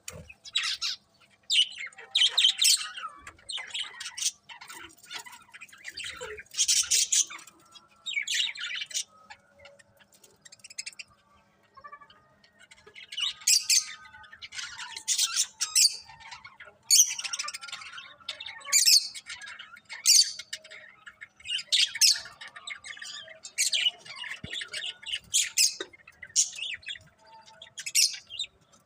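Pet budgies (budgerigars) chirping and chattering, with short squawks among the calls. The calls come in bursts with brief lulls, and the chatter eases off for a few seconds in the middle.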